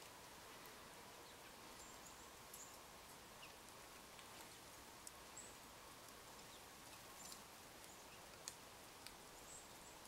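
Quiet outdoor ambience: a faint steady hiss with a few short, high-pitched bird call notes and some soft ticks scattered through it.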